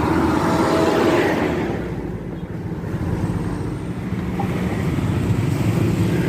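Road traffic: a motor vehicle passes close by and its noise fades about two seconds in, then engine noise builds again.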